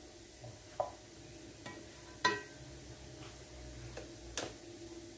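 A utensil clinking against a frying pan as small semolina harchas are turned over: three sharp clinks, the one about two seconds in loudest and ringing briefly, over a faint steady hum.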